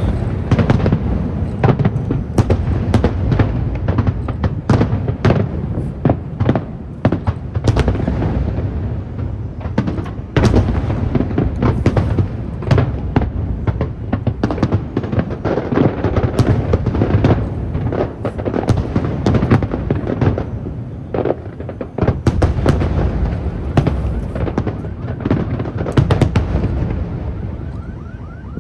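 Aerial fireworks display: many sharp shell bursts and bangs in quick, overlapping succession over a continuous low rumble.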